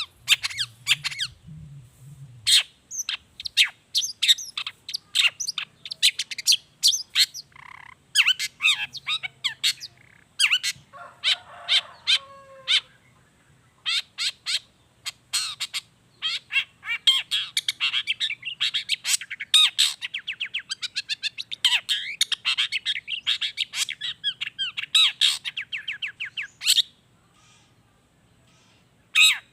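Long-tailed shrike (cendet) singing a fast, varied song of sharp chattering notes, thick with mimicked calls of other wild birds. A lower, rougher call comes in about eleven seconds in, a long rapid run fills the second half, and the song stops a few seconds before the end.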